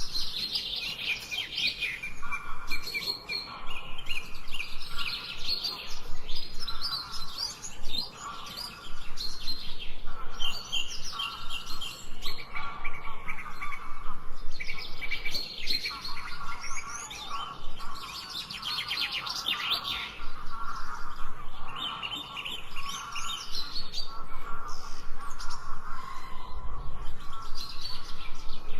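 Several songbirds chirping and singing over one another in a steady chorus of quick trills and repeated chirps.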